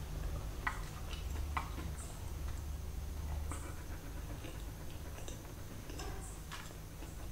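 A person chewing a mouthful of chicken burger with their mouth closed, close to the microphone. The sound is soft, wet clicks and smacks at irregular intervals over a steady low hum.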